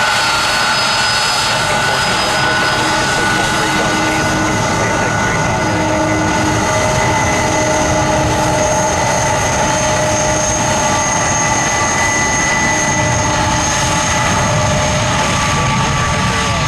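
Jet airliner engines running loud and steady: an even roar with several high whining tones held through it.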